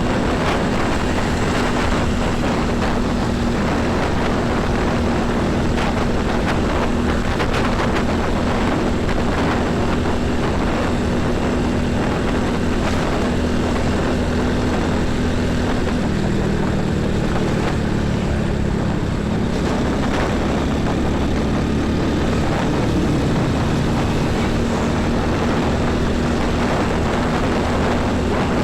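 Heavy road traffic: diesel trucks and buses running past, a continuous engine drone whose pitch shifts about halfway through.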